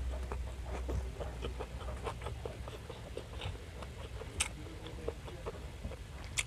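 Close-miked eating sounds: chewing a mouthful of grilled squid and rice with many small, irregular wet clicks of the mouth. Then fingers pick and tear at the grilled squid on the tray, with a sharper click about four and a half seconds in and another near the end.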